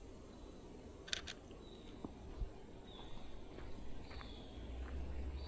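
Canon EOS RP camera shutter firing once, a quick double click about a second in. Faint short downward-falling bird chirps sound a few times over a quiet outdoor background.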